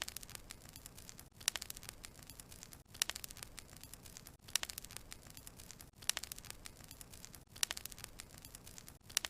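Burning wood logs crackling: clusters of sharp pops and snaps over a faint hiss, recurring at very even spacing about every one and a half seconds, as a short looped recording.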